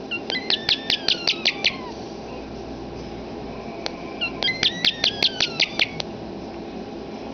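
Pet European starling giving two bursts of rapid clicking, each about nine sharp clicks over a second and a half, mixed with whistled notes; the first burst carries a falling whistle.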